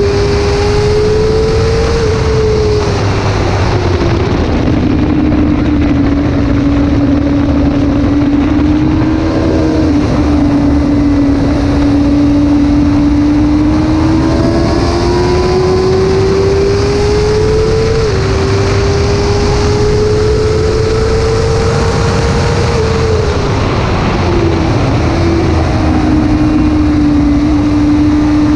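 Suzuki GSX-R 600's inline-four engine at high revs, heard from onboard with heavy wind noise. The pitch climbs slowly through long pulls, dips sharply twice at gear changes, and twice falls away over a couple of seconds as the bike slows for corners.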